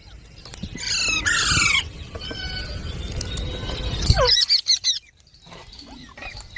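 Indian ringneck parakeets calling: a run of harsh falling squawks about a second in, thin whistling chirps after it, then another loud burst of calls just after four seconds and more as it ends, over a low rumble.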